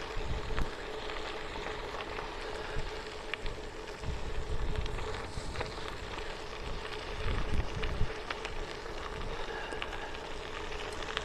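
Bicycle riding along an old railway-bed trail: steady crackle and rumble of the tyres rolling over the surface, with scattered small ticks and rattles. Wind buffets the microphone in low gusts about a second in, and again around the middle and two-thirds of the way through.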